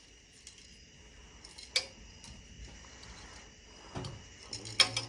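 A few light metallic clinks from handling metal tractor hydraulic-lift parts, with a sharp clink a little under two seconds in and another cluster near the end.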